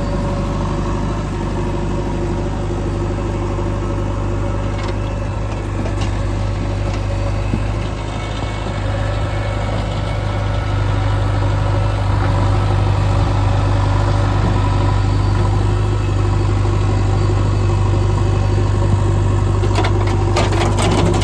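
Diesel engine of a JCB 3DX backhoe loader running steadily with a deep hum, a little louder from about halfway through. A few sharp metallic clanks come near the end.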